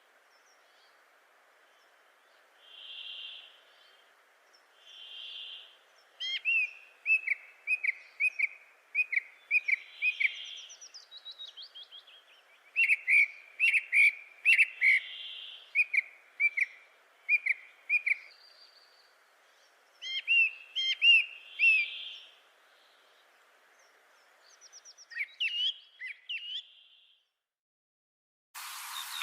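Birds calling: runs of short, sharp, downward-sweeping chirps, with soft whistled notes every couple of seconds, over a faint steady hiss.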